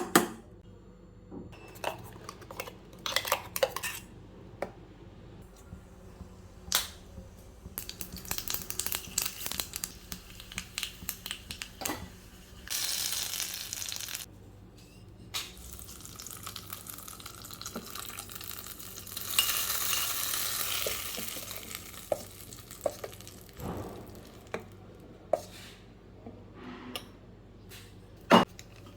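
Cooking sounds: metal utensils clinking and scraping against pots and pans, with scattered sharp knocks. A short stretch of hiss comes a little before halfway, and a longer one about two-thirds of the way through.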